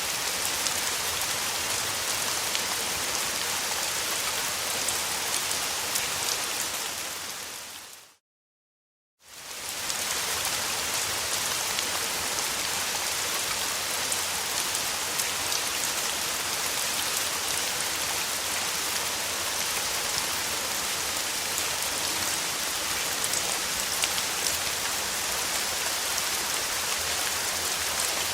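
Steady summer rain falling, a dense hiss with individual drops ticking through it. About eight seconds in it fades out to a second of silence and then fades back in.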